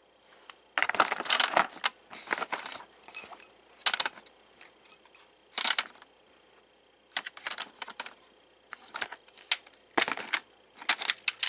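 Clusters of small metal clinks and rattles from a Lionel O gauge flat car and its loose wheel-set load being handled and turned over. There are about eight short bursts with brief pauses between them.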